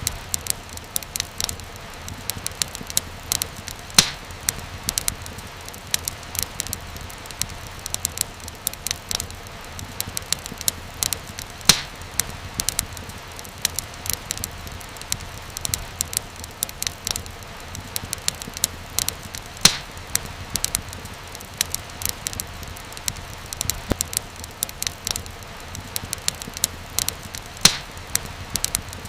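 Fire crackling in a fireplace: a steady stream of small snaps and pops over a low hiss and rumble, with a few sharper, louder pops spaced several seconds apart.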